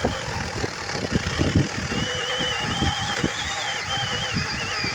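Small 21 V cordless electric chainsaw running and cutting through brush, with irregular knocks and rattles as the chain bites into the stems. A high motor whine rises and wavers from about two seconds in as the saw works.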